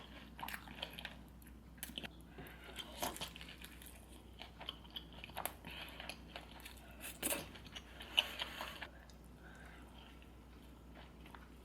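A person eating seafood close to the microphone: chewing and biting, with irregular crunches and sharp clicks scattered throughout.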